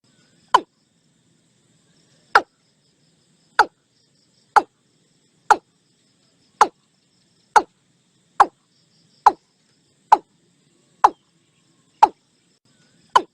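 Watercock calling: a steady series of short, sharp notes, each dropping quickly in pitch, about one a second.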